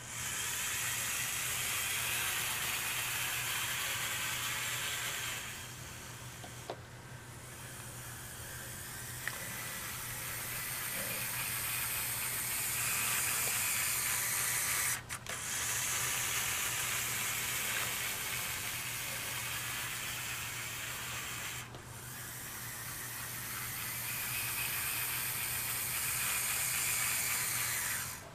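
Model C&O H-7a 2-8-8-2 locomotive running on flex track on its initial test: the electric motor and gears whir and the wheels rattle along the rails over a steady low hum. The sound swells and fades several times and drops out briefly about halfway.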